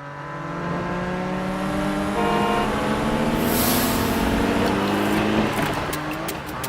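Cartoon car engine sound effect running and slowly revving up in pitch. A brief higher tone comes about two seconds in, a hiss near four seconds, and quick regular clicks begin near the end.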